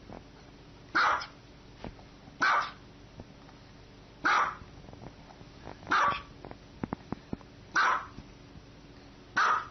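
Dog barking: six single, loud barks at a steady pace, one roughly every one and a half to two seconds.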